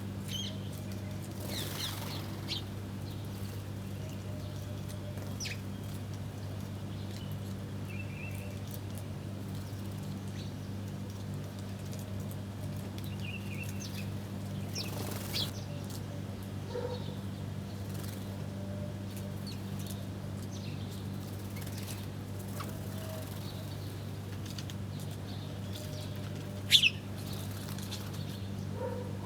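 Small birds feeding, with scattered short high chirps and occasional wing flutters over a steady low hum. One loud, sharp sound comes near the end.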